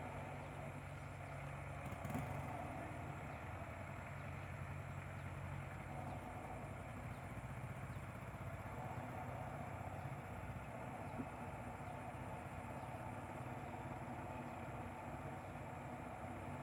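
Rice combine harvester's engine running steadily, with a brief knock about two seconds in.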